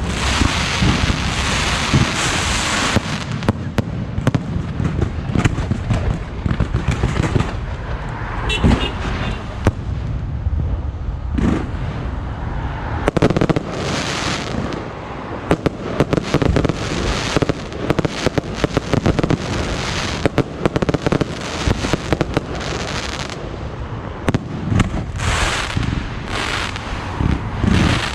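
Fireworks show going off without a break: a dense barrage of bangs and crackling, several reports a second.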